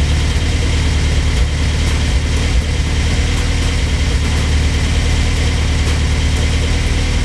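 Honda S2000's inline-four engine idling steadily, freshly started and running lean (an air-fuel ratio of about 17) while fuel is added to its map to richen the mixture.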